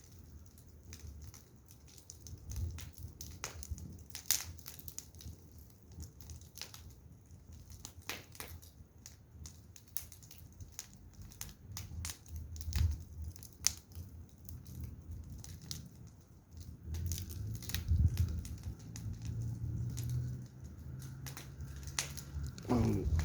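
Firewood burning and crackling, with irregular sharp snaps and pops. A low rumble grows louder over the last few seconds.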